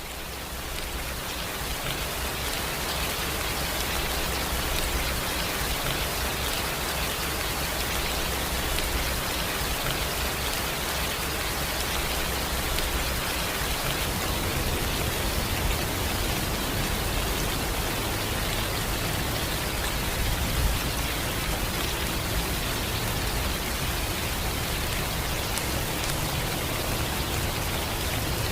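Steady rain falling, an even hiss with scattered drops, fading in over the first few seconds.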